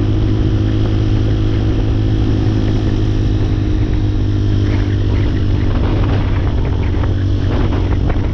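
Hawk 250 dual-sport motorcycle's single-cylinder engine running at a steady pitch, with no revving or shifting.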